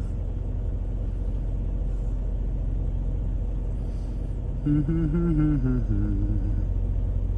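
A steady low rumble, with a short wavering hum, like a man's voice, for about two seconds starting about five seconds in.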